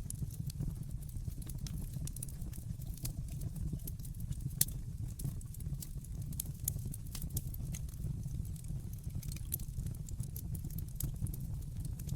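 Wood fire crackling in a fireplace: a steady low rumble of the burning logs with frequent small sharp crackles and pops, one louder pop about four and a half seconds in.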